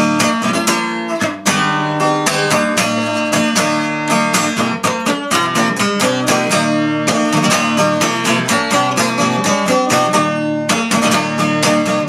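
Acoustic guitar played solo, chords sounding in a steady rhythm as an instrumental passage between sung verses.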